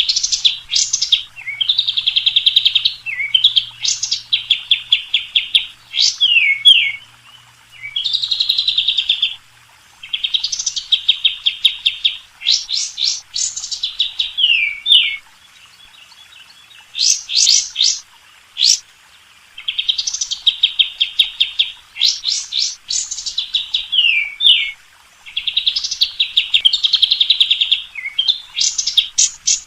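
Songbird song from a recording used to train white-rumped shamas: phrases of fast, buzzy trills alternate with sharp upward-sweeping whistles, repeating with short pauses between them.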